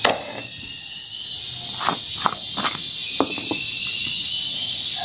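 Steady high-pitched insect chorus of crickets or cicadas, with a few light taps or clicks about two to three and a half seconds in.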